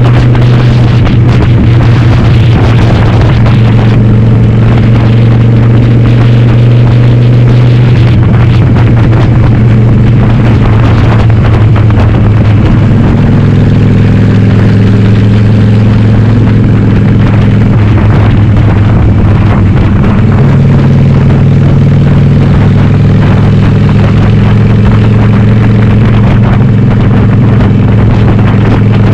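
Harley-Davidson Sportster's air-cooled V-twin, converted to 1200 cc, running loud under way through Cobra Speedster 909 pipes with the dB killers removed. The engine note steps down and up several times as the revs change.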